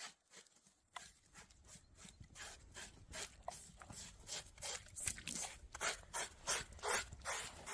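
Rapid rhythmic scraping strokes, about three a second, growing louder after the first couple of seconds: a blade being scraped over the pig's scalded skin to clean it.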